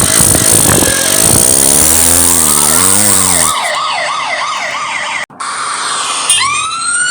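Cartoon police siren sound effect: after a loud rushing vehicle noise, a siren wails rapidly up and down, cuts out briefly, then starts again with a rising wail near the end.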